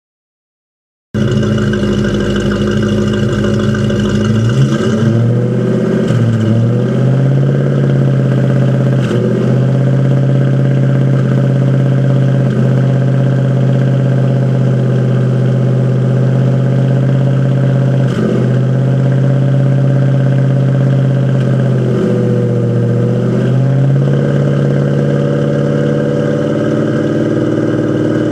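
Fox-body Ford Mustang engine idling with a misfire that the owner has not been able to trace. The idle settles lower about four seconds in and dips briefly now and then, with one short rise and fall near the end.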